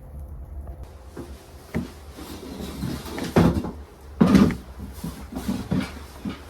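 A run of irregular knocks and clunks, like wooden things being handled and set down, with two loudest bangs a little after the middle and smaller knocks around them.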